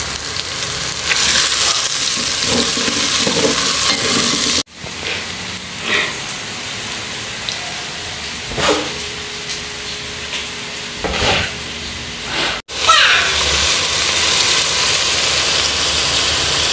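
Chopped onions sizzling in hot oil in a nonstick pan as they are stirred with a wooden spoon. The sizzle cuts off abruptly about 5 seconds in and again about 13 seconds in, with a few short knocks between, and then continues as diced tomatoes fry and are stirred in the pan.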